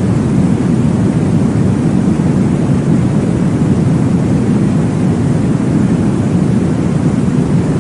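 Baby sleep noise: a steady, deep whooshing noise, strongest in the low range and unchanging, with no breaks or beat.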